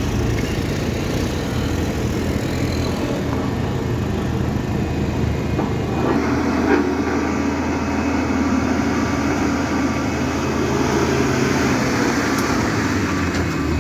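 Heavy vehicle engine running steadily with road noise, growing somewhat fuller about six seconds in.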